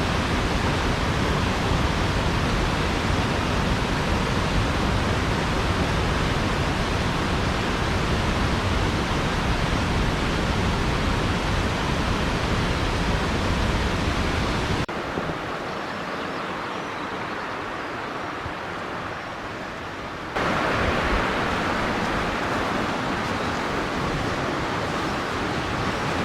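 Silvertip Falls, a mountain waterfall, making a steady rush of falling water. About 15 seconds in it drops suddenly to a quieter, duller rush, then comes back just as suddenly a little after 20 seconds.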